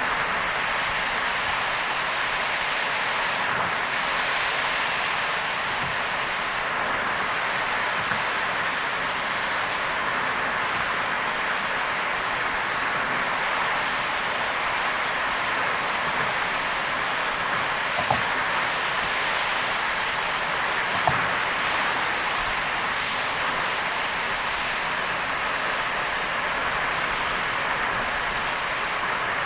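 Car driving in heavy rain: a steady hiss of rain and tyres on the wet road. Two brief knocks come about two-thirds of the way through.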